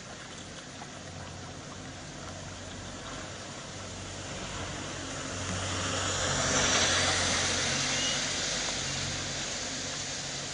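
A vehicle passing by: a rush of noise over a low engine hum builds for a few seconds, peaks past the middle, then fades.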